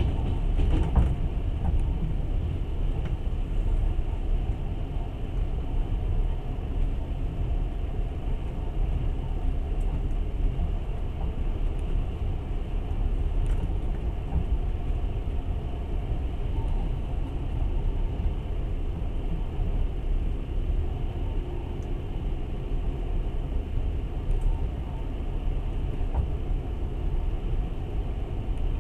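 Long-distance passenger train in motion, heard from inside the carriage: a steady low rumble, with a brief knock about a second in.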